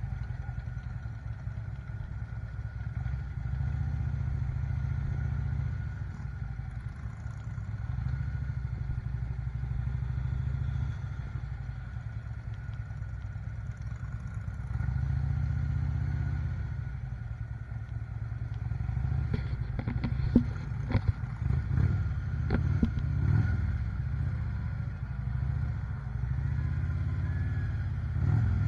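Motorcycle engines running with a steady low rumble. A series of clicks and knocks comes in over the second half.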